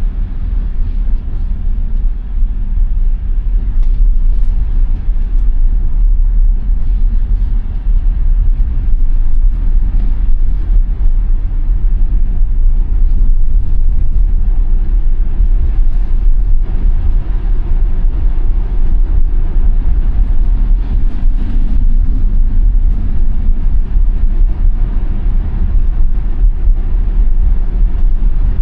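Steady low road rumble inside the cabin of a moving Tesla Model Y, the tyres running over snow-covered road. There is no engine note, as the car is electric.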